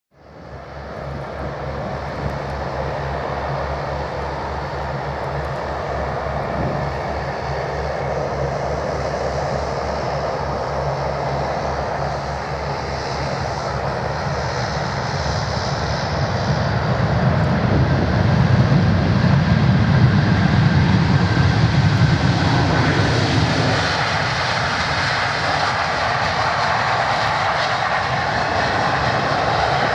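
Jet engines of an Airbus A320-232 (IAE V2500 turbofans) running as the airliner comes in to land. The sound builds steadily to a peak with a deep rumble about two-thirds of the way through, then eases slightly.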